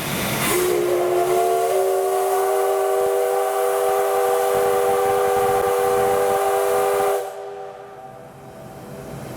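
Steam whistle of the C57 steam locomotive blowing one long blast: a rush of steam, then several steady tones sounding together, rising slightly as they start, cutting off about seven seconds in. Fainter train running noise follows.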